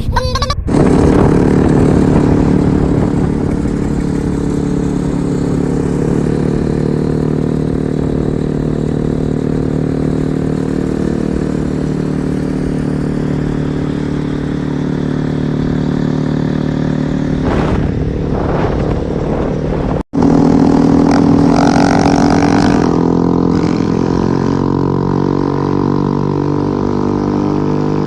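Honda CRF dirt bike's single-cylinder four-stroke engine running steadily at a fairly constant speed. The sound cuts out for an instant about twenty seconds in, then comes back a little louder before settling again.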